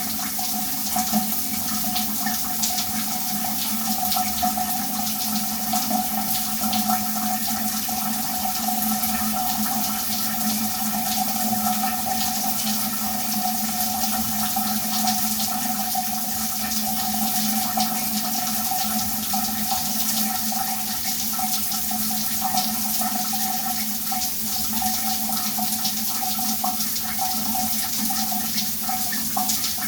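Shower running steadily, the spray hissing and splashing onto a hard surface, with two steady low tones humming underneath throughout.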